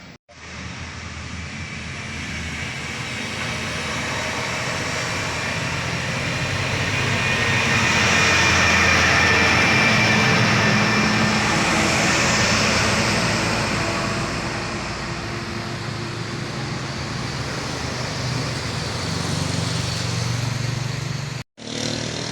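A heavy vehicle passing close by: a dense rumbling noise that swells to its loudest about halfway through and then eases off. It cuts out briefly near the end.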